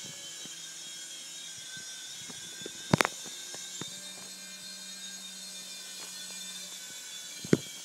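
Skytech M35 toy RC helicopter's small electric motors and rotors running with a steady high-pitched whine, with two sharp knocks, one about three seconds in and one near the end.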